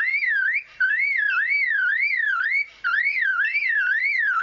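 Male superb lyrebird mimicking a car alarm: a loud whistled tone warbling up and down about three times a second, broken twice by short pauses.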